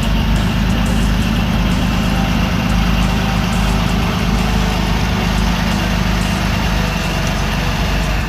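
Heavy vehicle engine running steadily at an even, low pitch, with no revving.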